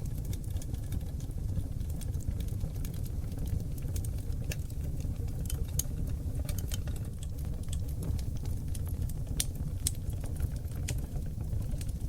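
Oak logs burning in a wood fireplace: a steady low rumble of the flames with irregular sharp crackles and pops.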